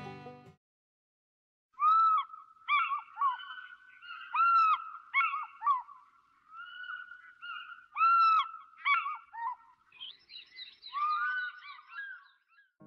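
Birds calling: a long series of loud, repeated arching calls that begins about two seconds in after a short silence. The calls come thicker and overlap near the end.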